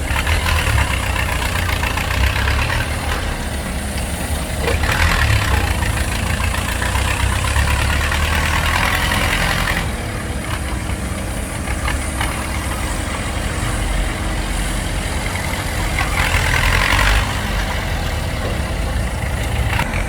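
Heavy diesel engines of an excavator and dump trucks running while moving soil, a steady low rumble that grows louder under load about a quarter of the way in and again near the end.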